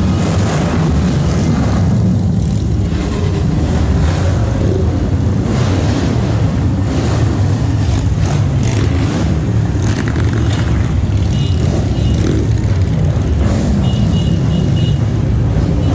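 Many motorcycle engines running as a line of motorcycles rides past, a continuous deep rumble.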